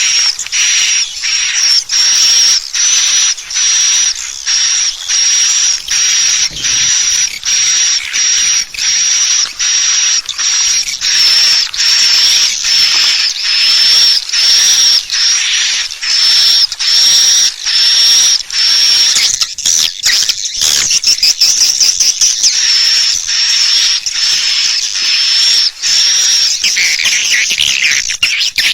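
Edible-nest swiftlet calls played as a lure sound for a swiftlet house: a loud, high-pitched buzzing chirp repeated in an even rhythm of nearly two a second. The chirps crowd together into a denser chatter about twenty seconds in.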